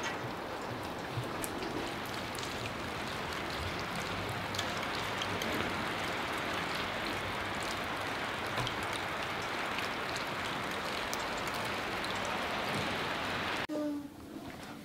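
Steady rain falling on paving and parked cars, a continuous hiss with scattered drops ticking. About 14 seconds in it cuts off suddenly to a much quieter room with a brief high-pitched call.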